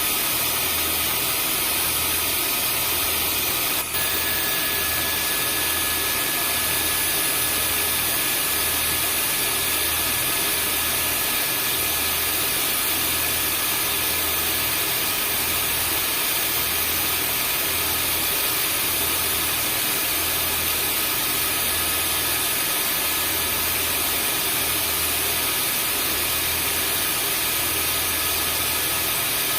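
Vacuum cleaner running steadily: a continuous motor whine and rush of air, with a brief dip about four seconds in.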